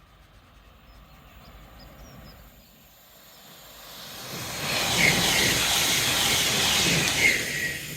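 A train passing on the main line: a rushing noise builds from about halfway through, stays loud for about three seconds, then begins to fade. Faint bird chirps early on.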